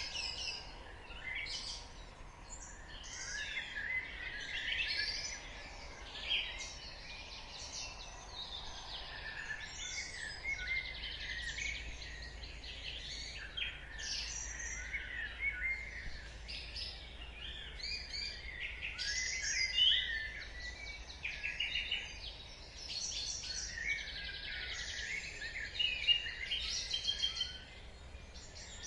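Dawn chorus: many birds singing at once, overlapping chirps, trills and whistles that never pause, over a faint low background hum.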